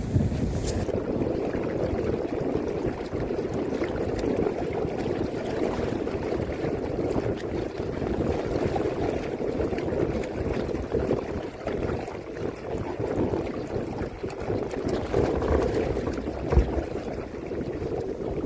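Water rippling and lapping against a sailing canoe's hull, steady throughout. A single dull knock sounds near the end.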